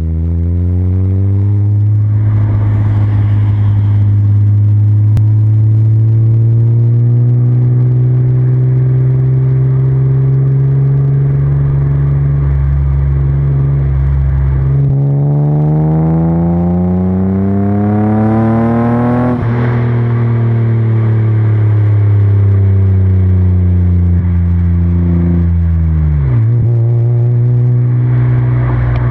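BMW 323ti's M52B25 2.5-litre inline-six engine, breathing through a Magnaflow universal muffler, idling steadily. About halfway through, it is revved up smoothly over several seconds, then released and falls back to idle.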